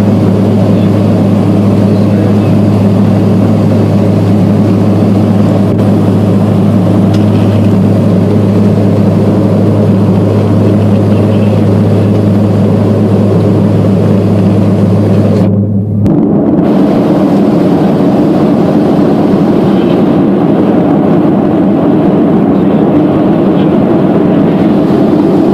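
Steady engine and propeller drone of a turboprop airliner heard inside the cabin, with a strong low hum. About 16 seconds in, the sound drops out for a moment and comes back with a changed tone to the drone.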